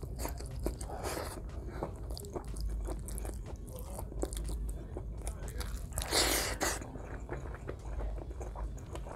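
Close-miked chewing and wet mouth sounds of a man eating meat and rice by hand, with many small smacks and clicks. A louder noisy burst comes about six seconds in.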